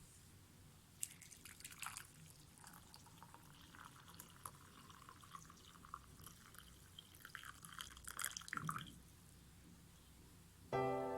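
Faint water dripping and trickling in small irregular patters, from about a second in until about nine seconds in.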